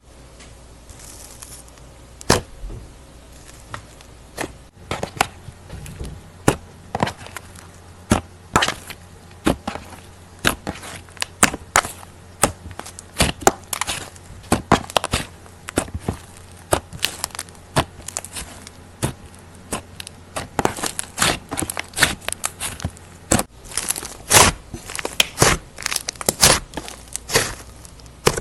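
Slime with clay mixed into it being worked and pressed, giving a run of sharp, irregular sticky clicks and pops, several a second, some much louder than others.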